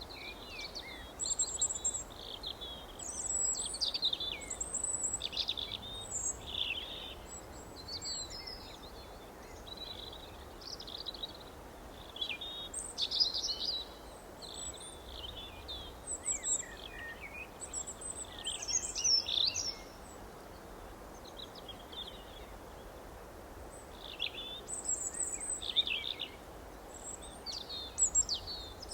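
Several small birds chirping and trilling in quick, overlapping short phrases, with a lull of a few seconds past the middle, over a faint steady background hiss.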